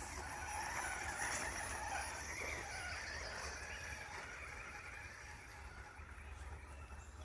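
Faint, wavering whine of an RC truck's brushless electric motor, changing pitch with the throttle and fading away.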